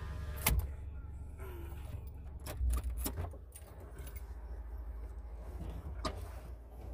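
Low, steady rumble of a car engine idling, heard from inside the cabin, with a few sharp clicks and knocks: one about half a second in, a cluster around two and a half to three seconds in, and another about six seconds in.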